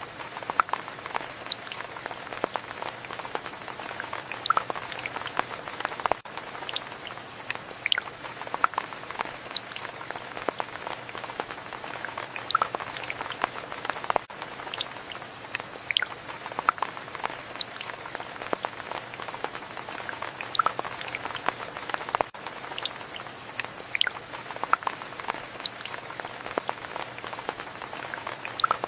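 Steady rain with many individual drops heard as dense irregular clicks and drips over a constant hiss. A faint high tone slides slowly down in pitch, recurring about every eight seconds.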